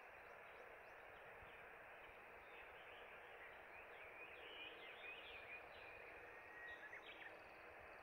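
Faint steady outdoor background hiss, with a run of small bird chirps and twitters in the second half.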